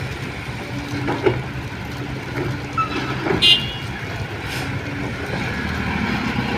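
A motor vehicle engine running steadily, with a few short knocks and a brief high-pitched sound about three and a half seconds in.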